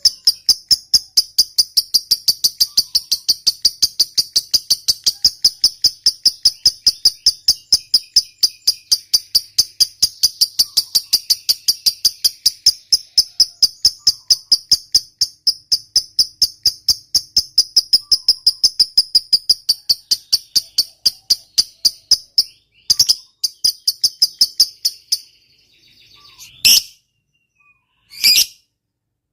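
Lovebird singing its long chattering trill ('ngekek panjang'), a rapid, even string of high notes that runs unbroken for over twenty seconds before stopping. Two short, sharp single calls follow near the end.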